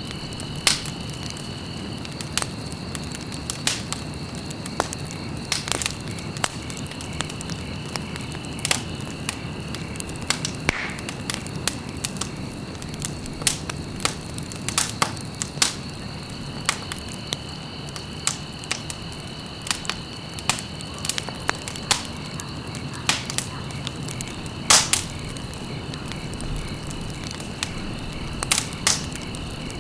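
Wood fire burning in a fireplace, crackling with irregular sharp pops over a steady low rustle. A faint high whistle drops out and returns a few times.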